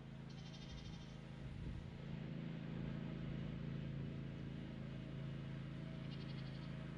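Craftsman Z560 zero-turn mower engine running steadily, a little louder from about two seconds in. Two short, high, rapidly pulsing chirps are heard, one early and one near the end.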